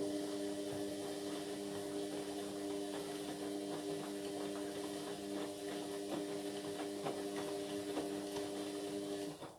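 Indesit MyTime washing machine running for about nine seconds: a steady motor hum with light clicking and rattling over it. It starts just before and cuts off near the end.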